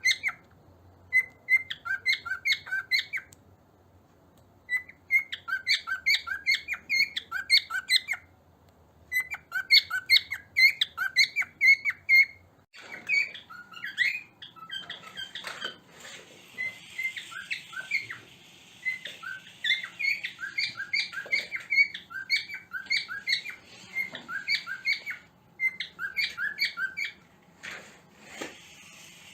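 Cockatiels calling in rapid runs of short, repeated chirps, about five or six a second, in bursts of two to three seconds with brief pauses between. From about halfway through, a hiss and a few knocks run under the calls.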